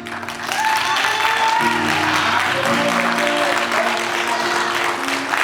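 A congregation applauding over instrumental music, starting suddenly and swelling about half a second in.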